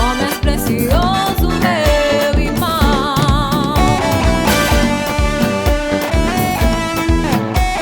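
Instrumental passage of a gospel band song: electric guitar carrying a bending, wavering melody over bass and a steady drum-kit beat.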